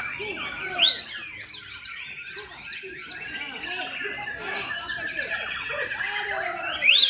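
Many caged songbirds singing at once in a bird-singing contest: a dense mix of overlapping chirps, warbles and whistles. Two loud rising whistles stand out, about a second in and near the end.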